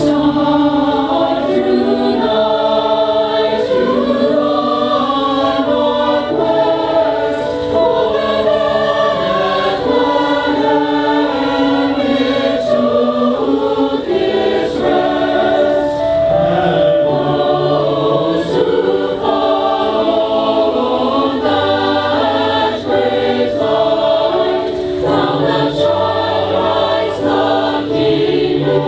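Choir singing, held chords moving from note to note with no break.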